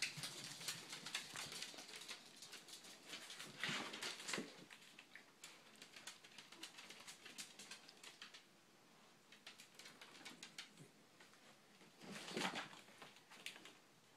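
A cat chewing and licking macaroni and cheese: a run of small, irregular wet clicks and smacks, with two louder noises about four seconds in and about twelve seconds in.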